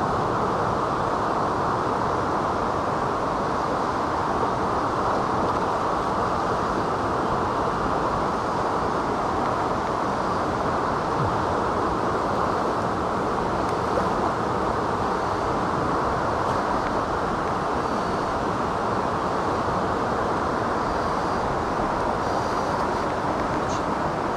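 Steady rushing of a fast mountain stream, a constant loud wash of water noise that stays even throughout.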